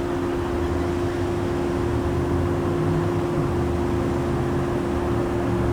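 An engine idling steadily: a low, uneven rumble under a constant hum, with a hiss over it.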